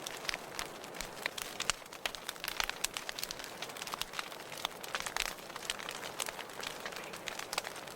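Wood fire crackling in a fireplace: a steady hiss with many irregular sharp pops and snaps.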